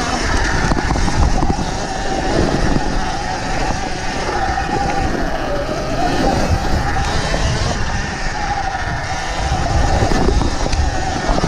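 Sur-Ron Ultra Bee electric dirt bike's motor whining while riding, its pitch rising and dipping with the throttle, over a heavy rumble of wind and trail bumps on the microphone.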